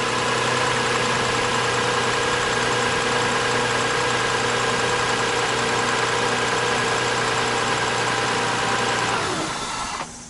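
2001 Toyota Sienna's 3.0-litre V6 idling steadily, then switched off about nine seconds in and running down to a stop.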